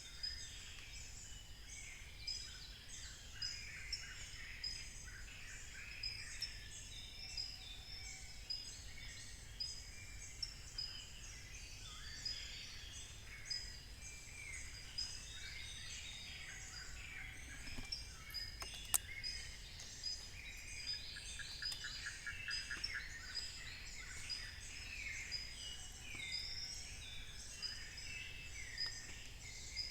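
Dense dawn chorus of many forest birds calling over one another in tropical African montane forest, with a steady high-pitched tone underneath. A single sharp click about two-thirds of the way through, and a brief rapid trill of pulses soon after.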